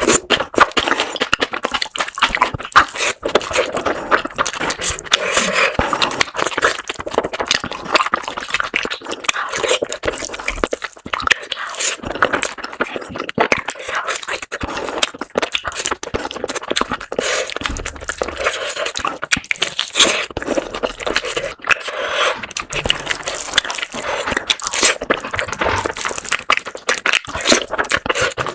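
Close-miked eating: chewing and crunching of food, with scrapes and clicks throughout.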